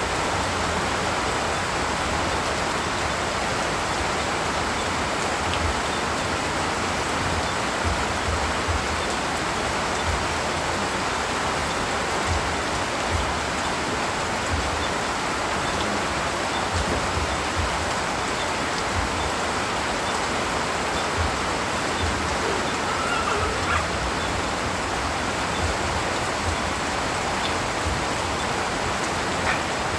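Steady rain falling in a forest, an even hiss, with irregular soft low thuds throughout.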